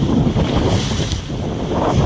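Strong wind buffeting the microphone at sea, a loud, unsteady rumble, with waves around the boat.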